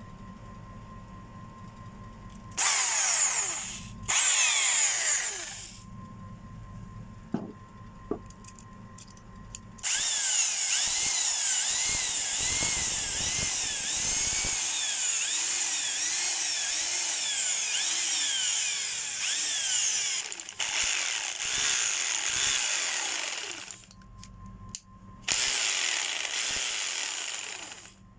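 Makita HR2470 rotary hammer's electric motor test-run in bursts: two short runs, then one of about ten seconds, then two more. Each time the trigger is let go, the motor winds down with falling pitch.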